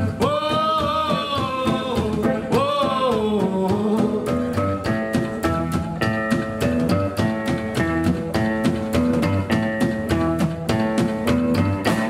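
Live rockabilly band playing: electric guitar, double bass and drums with a steady beat. Two long wavering sung notes in the first few seconds, then the band plays on without singing.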